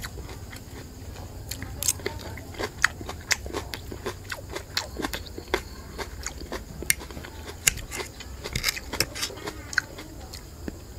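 Close-up sound of a person chewing and biting a mouthful of grilled pork ribs and broccoli: irregular sharp mouth clicks and crunches, over a steady low hum.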